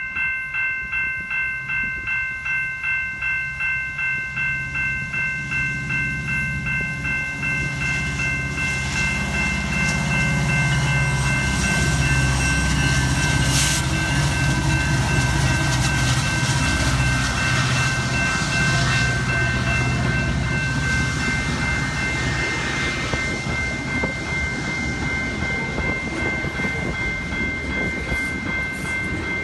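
Railway grade-crossing bell ringing at about two strikes a second as a train passes. The locomotive's engine rumble and the passing train grow louder about eight seconds in and ease off toward the end.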